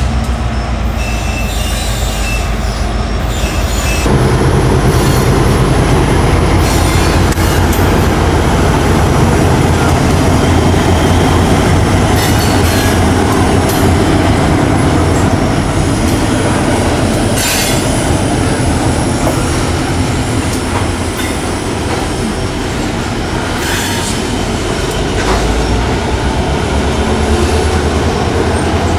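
A train led by two Norfolk Southern diesel locomotives passing close by. The steady rolling rumble of the train grows louder about four seconds in and carries on as the cars go by.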